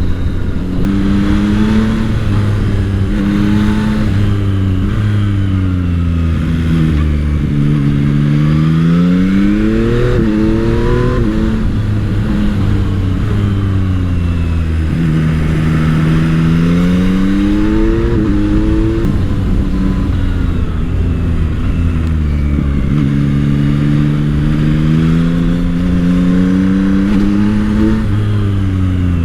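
Yamaha MT-09 SP's 890 cc CP3 three-cylinder engine heard from the rider's position under way: it revs up through the gears with short breaks at each upshift, then eases off, three times over.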